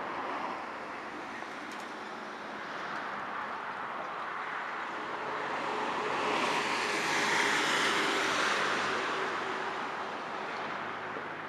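Highway traffic noise from the road above, a steady rush that swells and fades as a vehicle passes about two-thirds of the way through.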